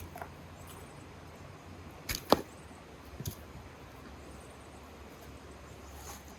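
Two sharp knocks in quick succession about two seconds in, then a softer one about a second later, over a faint steady low hum.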